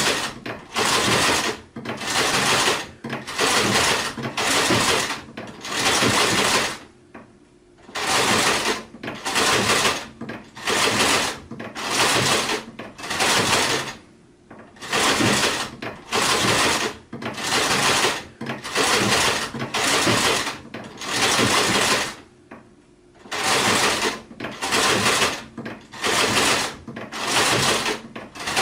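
Sewing machine stitching in short spurts of under a second each, about one to two spurts a second with brief stops between them, and a slightly longer pause every seven or eight seconds.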